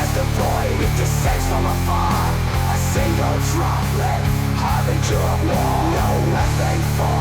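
AI-generated black metal instrumental passage: distorted electric guitar riffing over drums and cymbals, with no vocals. The low notes shift about once a second.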